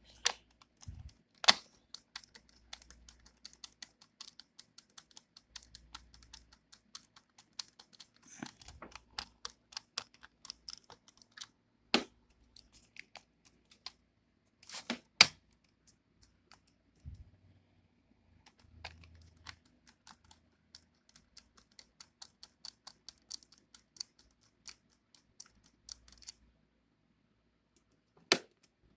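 Many small clicks and taps from handling a laptop's bottom cover and its screws during reassembly, with a few louder knocks and a short quiet stretch near the end.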